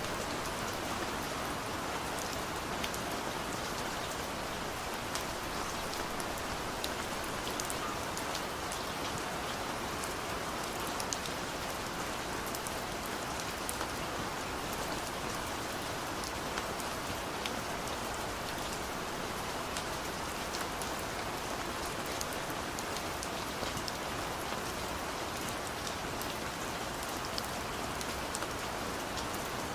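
Rain falling on a car's roof and windows, heard from inside the cabin: a steady hiss with many small drop taps.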